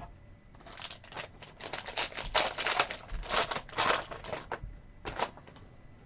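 Sports card packs and cards being handled: a run of quick crinkling rustles of the wrappers for about four seconds, then one more near the end.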